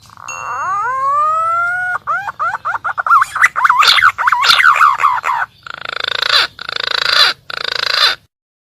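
Green pigeon (punai) lure call: a long rising whistle, then a run of quick wavering whistled notes, then three harsh rasping notes near the end.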